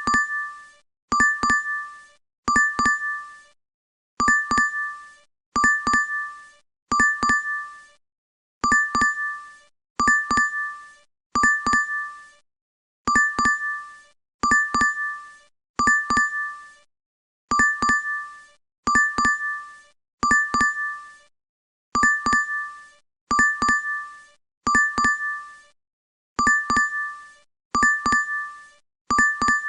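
DoorDash app notification chime: a bright two-strike ding, repeated on a loop about every one and a half seconds.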